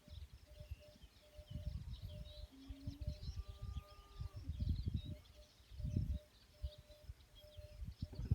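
Small birds chirping and twittering over irregular bursts of low rumble, with a faint short pip repeating about twice a second.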